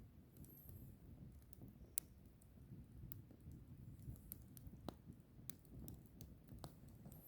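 Log fire burning quietly: a low flutter of flames with scattered sharp crackles and pops from the wood, the loudest pop about two seconds in.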